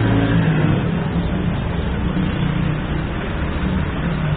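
Street traffic: a motor vehicle's engine running close by over a steady traffic noise, with no sudden events.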